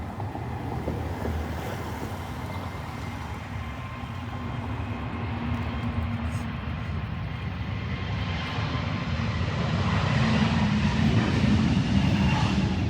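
Jet airliner's engines at takeoff power, a rumble that swells steadily louder as the plane comes past, loudest near the end.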